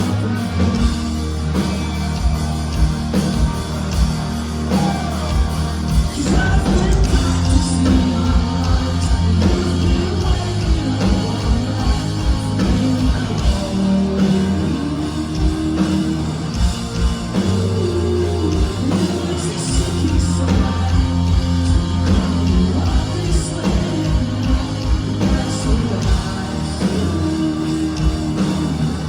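Rock music with a sung vocal over a full band, driven by rapid, regular low drum strokes.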